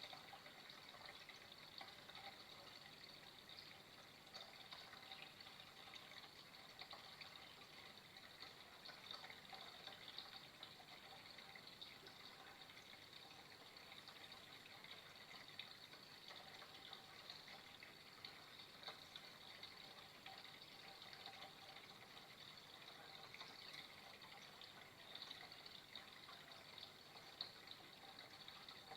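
Faint, steady trickle of flowing water, with small splashes flickering through it.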